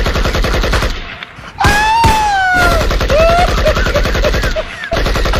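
Rapid automatic gunfire, a prank sound effect, in fast continuous bursts. It breaks off briefly a little over a second in. It resumes with a long falling whine at about two seconds and runs on with small high pings.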